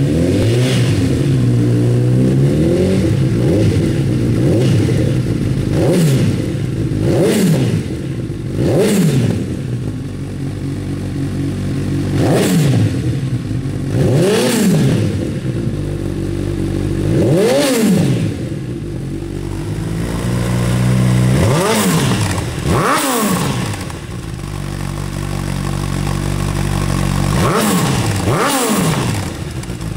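Honda CB1000R inline-four engine through an aftermarket DAM exhaust, idling and revved in a dozen or so sharp throttle blips, some in quick pairs near the end, each rising and falling back to idle.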